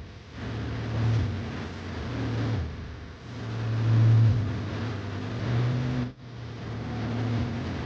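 Car engine running, its drone rising and falling in speed, loudest about four seconds in, with a brief sharp drop just after six seconds.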